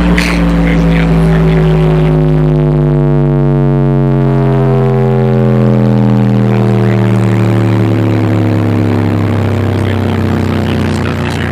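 Car audio subwoofer system playing a loud bass tone sweep. A single low tone with strong distorted overtones glides slowly and steadily downward in pitch.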